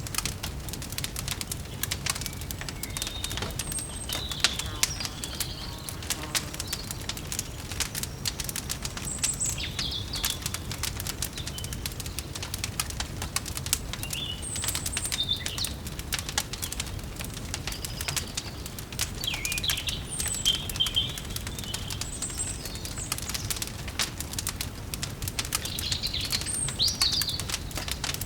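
Wood fire crackling with a continuous run of small pops and snaps, while small birds chirp and warble now and then, over a steady low rumble.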